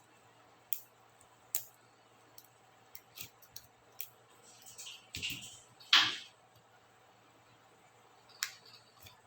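Sharp plastic clicks and snaps from laptop keycaps being worked off or onto their clips: a handful of separate clicks, a short scraping about five seconds in, and the loudest snap about six seconds in.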